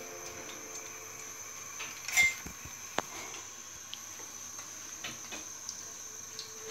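Handling at a frying pan of oil: a louder clatter about two seconds in and a few light clicks over a low steady hiss.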